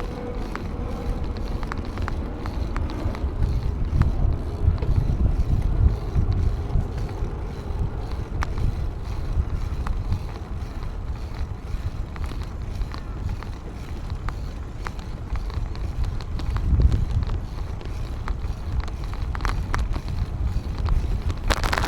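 Wind buffeting the microphone of a camera riding along on a moving bicycle, a low rumble that swells and eases, with scattered small clicks and rattles. A short louder rush of noise comes at the very end.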